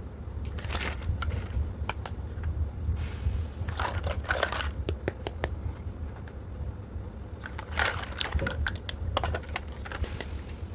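Plastic toy packaging and small plastic toy pieces being handled, crinkling and clicking in three separate bursts over a steady low hum.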